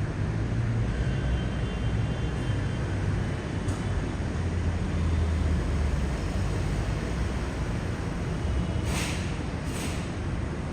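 Steady low rumble of road traffic, with two short hisses about a second apart near the end.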